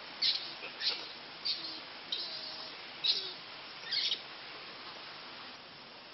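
A bird chirping: about six short, high calls spaced roughly half a second to a second apart, stopping a little after four seconds in, leaving a faint hiss.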